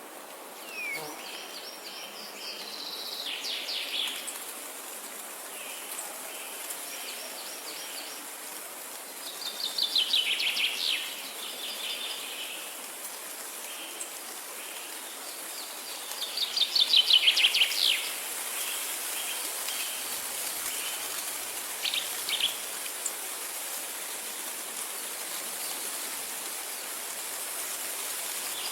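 A songbird singing over a steady background hiss: three loud, rapid trilled phrases spaced several seconds apart, with shorter repeated notes between them.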